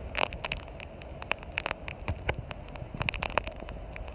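Storm noise on a phone microphone: a steady low rumble of wind with irregular crackling clicks throughout.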